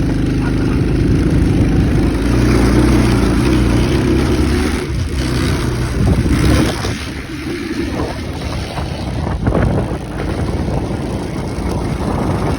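Tao Tao 125cc ATV's small single-cylinder four-stroke engine running while being ridden, its note dropping and picking up again a few times as the throttle changes.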